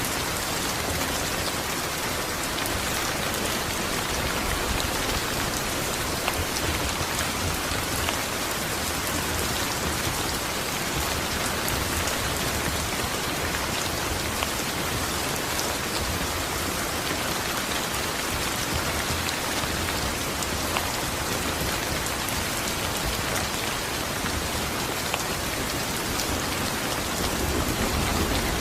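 Steady rain falling on a hard surface: an even hiss with scattered drop ticks. A low rumble of thunder starts to build near the end.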